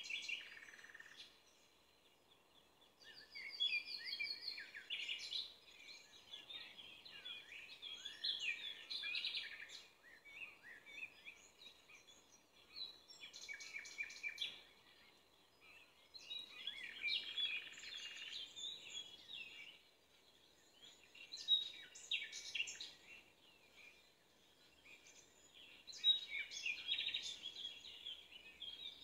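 Songbirds singing: bursts of warbling, chirping phrases a few seconds long, separated by short pauses.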